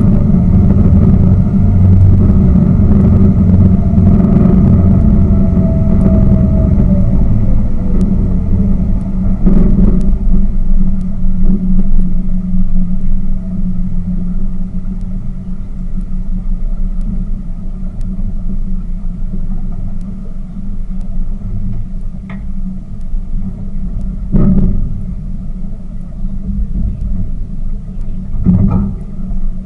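Tour boat's engine running steadily, easing off and getting quieter about halfway through. Two short thumps come near the end.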